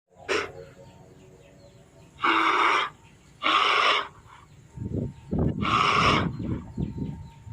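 An animal giving three loud, harsh calls about a second apart, each lasting about half a second, with low rumbling noise under the later part.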